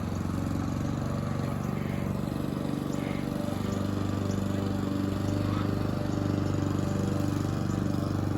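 Tractor engine running steadily while mowing long, thick grass.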